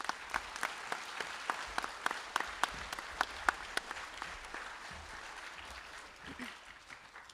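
Audience applauding, a dense patter of hand claps that tapers off toward the end.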